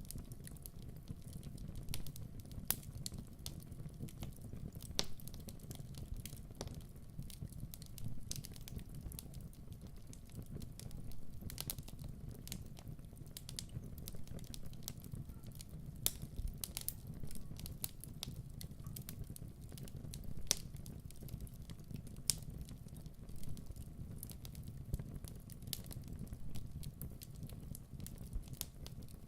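Wood fire crackling: sharp, irregular snaps and pops over a steady low rumble.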